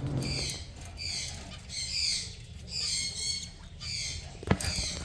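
Caged pet birds calling: a string of short, raspy, high-pitched calls about once a second, with a sharp knock near the end.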